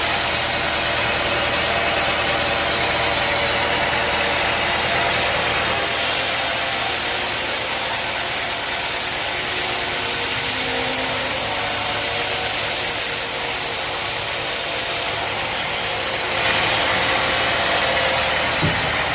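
Sawmill machinery running steadily, a dense mechanical noise with an engine-like hum; its hissing upper part changes about six seconds in and again near sixteen seconds.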